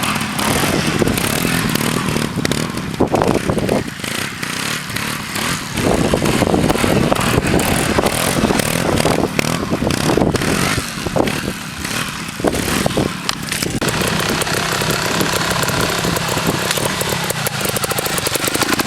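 Trials motorbike engine running and revving, rising and falling with the throttle, easing off briefly twice and steadier near the end.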